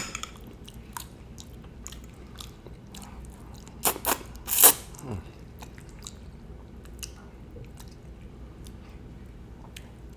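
A person chewing a beef meatball close to the microphone: scattered soft mouth clicks and smacks, with two louder wet smacks about four and a half seconds in.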